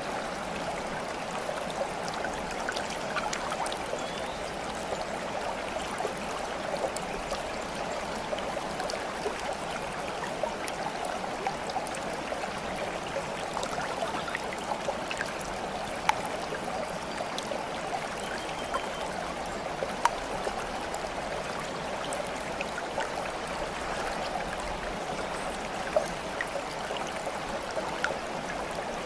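Water flowing steadily in a stream, with small splashes and drip-like ticks scattered through it and a few sharper ones now and then.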